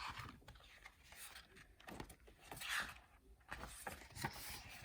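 Soft paper rustling from a picture book being opened and its pages handled, a few brief scrapes, the clearest near the start and a little under three seconds in.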